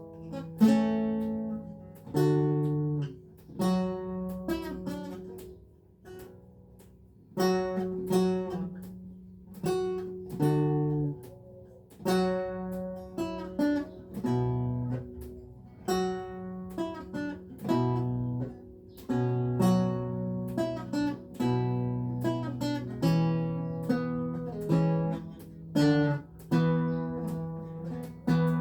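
Renaissance lute played solo: plucked single notes and chords, each dying away after it is struck, with a short pause about six seconds in before the playing resumes.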